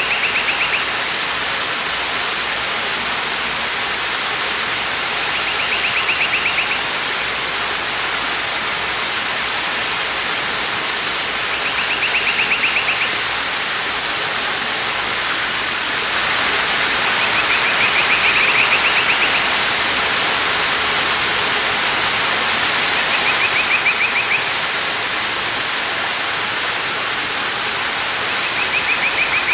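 Waterfall rushing steadily. A short pulsing trill repeats about every six seconds.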